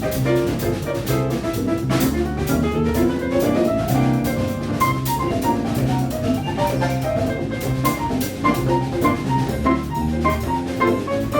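Latin jazz band playing a Brazilian tune live: drum kit and hand percussion keep a busy, steady groove under piano and bass, with a rising melodic run about two seconds in.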